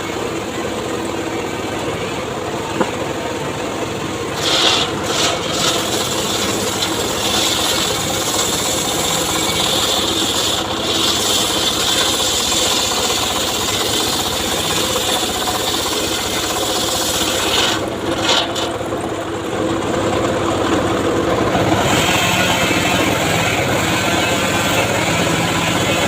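Homemade circular saw cutting mahogany wood: the blade runs steadily, and the cutting noise grows louder about four seconds in, eases briefly a little after halfway, and picks up again near the end.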